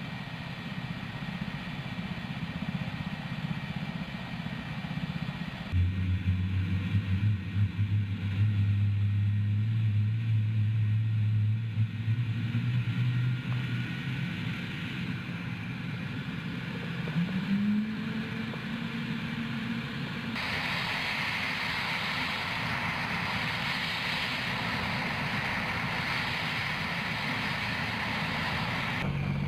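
Helicopter engine and rotor noise, a steady mechanical drone that changes character abruptly several times. A strong low drone runs in the middle, a tone rises in pitch a little after halfway, and a steady hiss takes over for the last third.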